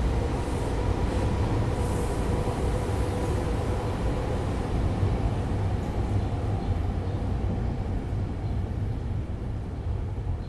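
SEPTA Regional Rail train pulling away past the platform, its last car rolling by and its rumble and rail noise fading. The higher rail sounds die away about six seconds in, leaving a low steady rumble.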